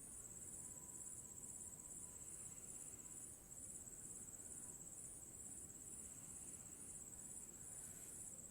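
Near silence: faint room tone with a high-pitched chirp that pulses about twice a second.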